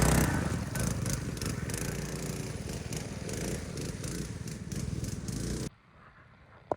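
Minibike's small engine running and slowly fading as the bike moves away, then cutting off suddenly about five and a half seconds in.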